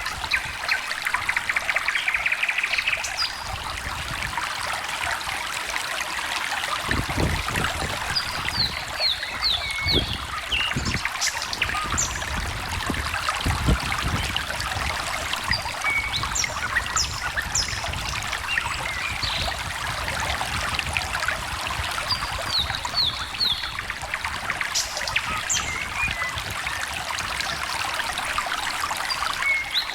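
Stream trickling and babbling steadily, with small songbirds chirping over it: a rapid trill in the first few seconds, then repeated runs of three or four quick high notes. A few low rumbles come through in the middle.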